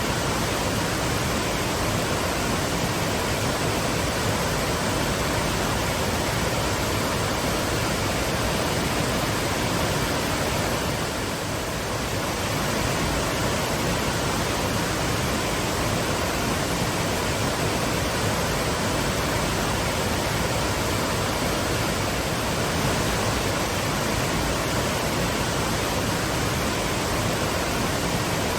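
Waterfall: a steady, even rush of falling water, spread from deep to high, with a brief slight dip in level about eleven seconds in.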